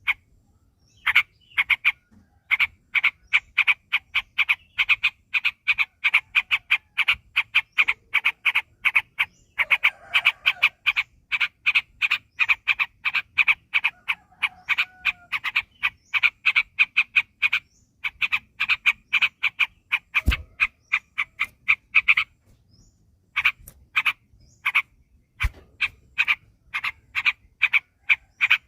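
Yellow-vented bulbul (trucukan) singing a long, fast run of short repeated notes, about five a second, with a couple of brief breaks. It is the rapid, unbroken 'ropel' style of song. Two low thumps sound in the second half.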